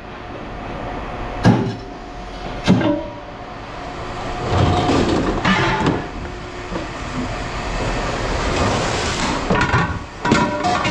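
Scrap metal being handled: two sharp metallic knocks a little over a second apart, then a stretch of clattering over a steady mechanical rumble that swells toward the end.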